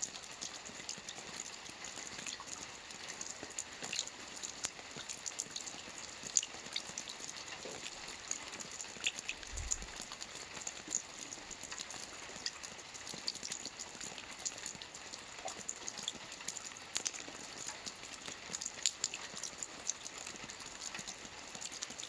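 Soft rain falling on a roof: a steady hiss of rain with many scattered, irregular ticks of single drops striking the surface.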